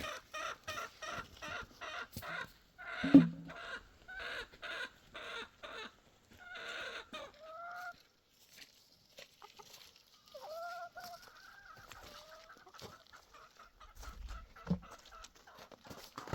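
Chickens clucking in quick runs of short calls, then one longer drawn-out call past the middle. A loud knock about three seconds in and a softer one near the end.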